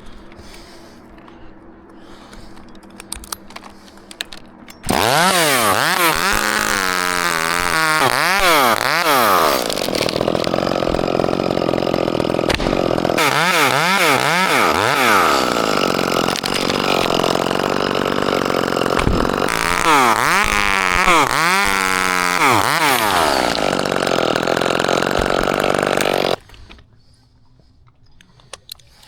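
Gas chainsaw, after a few seconds of faint low hum, coming in loud about five seconds in and running at full throttle through a cut into the pine, its pitch rising and falling repeatedly as the revs change under load, then cutting off abruptly near the end.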